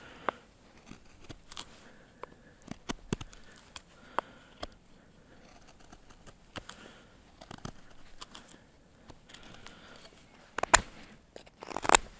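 Scattered small clicks and crinkling handling noises, with two louder knocks near the end.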